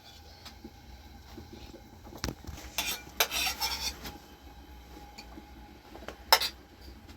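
Metal utensils clinking and scraping against pots and dishes: a few scattered knocks, a brief scraping rustle around the middle, and the sharpest clink near the end.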